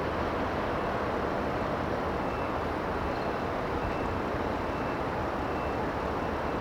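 Steady rumble of a boat underway, mixed with wind on the microphone.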